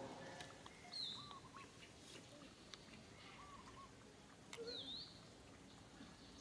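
Faint outdoor ambience with birds chirping: two sharp, high chirps, about a second in and again near the end, with a few softer short calls in between.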